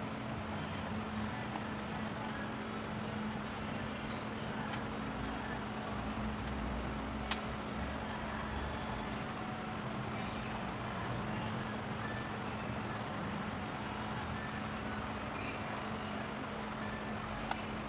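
A steady machine hum with a constant low tone, with a few faint clicks.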